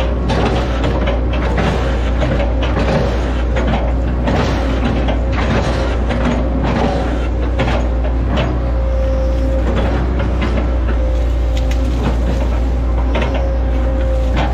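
Hitachi ZX110 excavator's diesel engine running steadily under load with a constant hydraulic whine, broken by irregular knocks, clanks and cracks as the machine works palm trunks.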